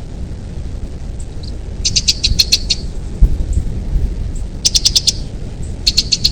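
A bird chirping in quick runs of short, high-pitched notes, three runs in all, over a steady low rumble.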